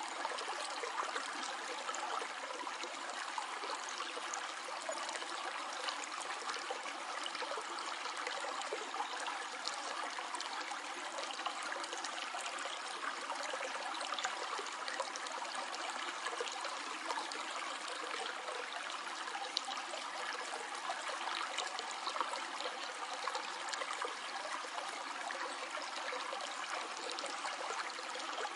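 Stream water flowing steadily over rocks, a continuous babbling and trickling.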